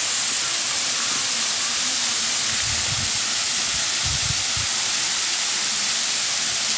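Rushing water making a steady, even hiss, with two brief low rumbles near the middle.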